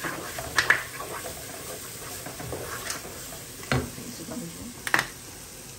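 Masala paste sizzling in a hot non-stick pot while a wooden spoon stirs and scrapes through it, with a few sharp knocks scattered through.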